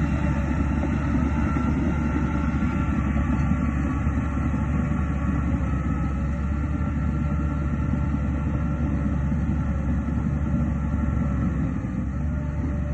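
Heavy earthmoving machine's diesel engine running steadily, a deep even drone with a fainter steady whine above it.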